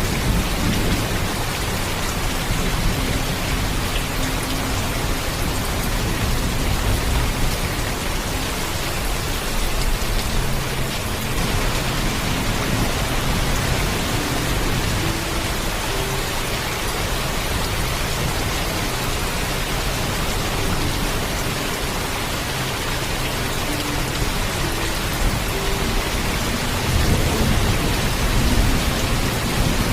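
Heavy, steady rainfall with a low thunder rumble underneath that swells near the end.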